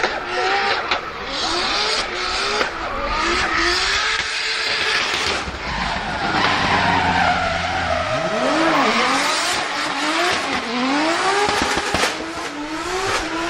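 Drift car's engine revving hard in repeated rising sweeps, with the tyres squealing and skidding as the car slides.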